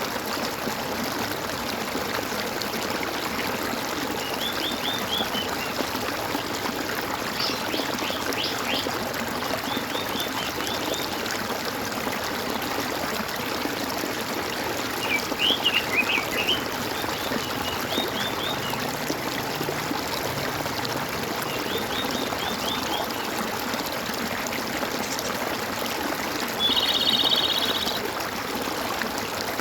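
Steady gurgling, trickling water, with birds singing short chirped trills every few seconds. The loudest trills come about halfway through, and a held, buzzy call comes near the end.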